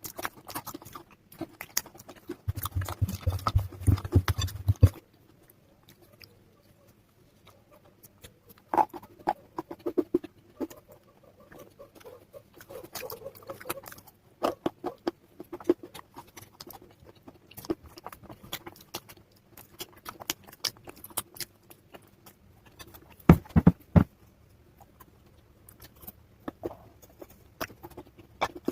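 Dry, crunchy cracking and crumbling of dried clay paste and slate-pencil chalk pieces being broken up. Dense crackling with a low rumble for the first few seconds, then scattered sharp cracks, with a loud cluster of snaps past the middle.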